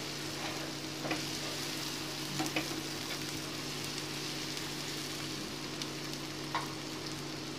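Browned sliced onions and garlic paste frying in hot oil in a pan with a steady sizzle. A few light clicks of the spoon come as they are stirred.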